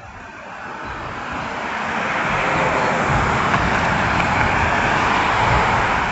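A road vehicle passing close by: engine and tyre noise that builds over about two seconds, holds loud, and begins to fade near the end.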